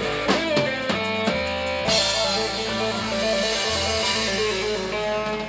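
Live blues-rock band playing: electric guitar lines with bent notes over bass and drum kit, with a cymbal crash about two seconds in that rings on.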